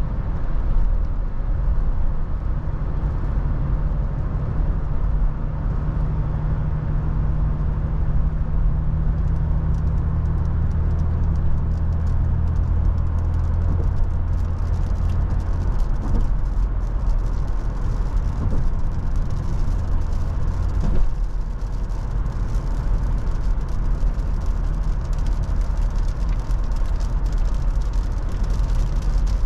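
Toyota FJ Cruiser with its 4.0-litre V6 driving, heard as a steady mix of engine drone, tyre and wind noise. The low engine hum eases about halfway through, and there is a single short knock near the 21-second mark.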